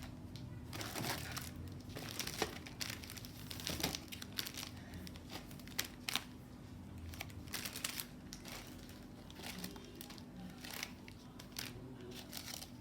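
Packaging crinkling and rustling as craft supplies are unwrapped and handled, with irregular sharp crackles throughout. A faint steady hum runs underneath.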